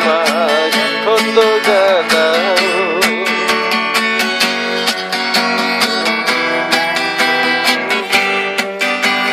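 Acoustic guitar strummed steadily, with a voice singing wavering, vibrato notes over it for the first three seconds or so.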